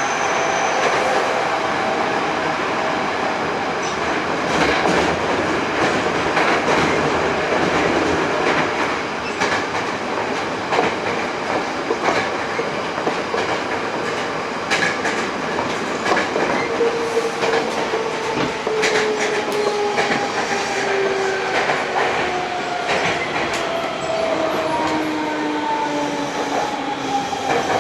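Hankyu 8000 series electric train with a Toshiba GTO-VVVF inverter drive, heard from inside the car: running noise with wheel clicks over rail joints. In the second half the motor whine falls steadily in pitch as the train slows.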